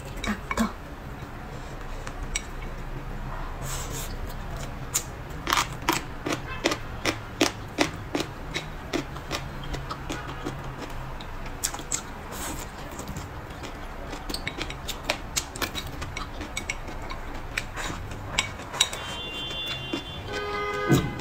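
Close-miked eating sounds: wet chewing, smacking and sharp mouth clicks while eating braised pork trotter and leafy greens. Near the end comes a brief pitched sound.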